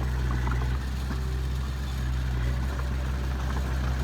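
Heavy construction machinery's diesel engine running steadily at a low, even hum, with a slight drop in loudness about a second in.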